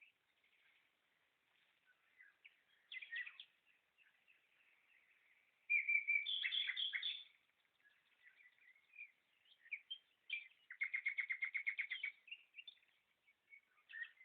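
Songbirds chirping and singing in short bursts, with a louder phrase about halfway through and a rapid, evenly spaced trill near the end.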